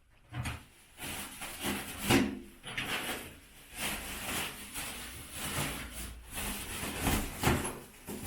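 Bricks and rubble from a demolished wall being handled and shifted: irregular knocks and scraping, the loudest knock about two seconds in.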